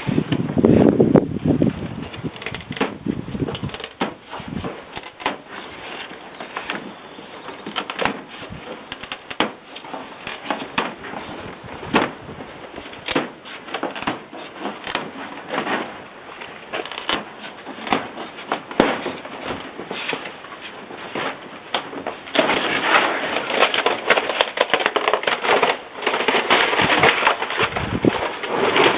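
Irregular clicks and knocks, as of hand work on wood or metal, giving way about two-thirds of the way through to a louder, continuous rasping noise still dotted with clicks.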